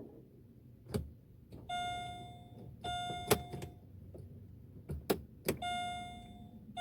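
2006 Pontiac G6 turned with the key but not cranking: several sharp clicks and no engine turning over, while a dashboard warning chime sounds three times in steady tones of about a second each. The owner takes it for a weak battery.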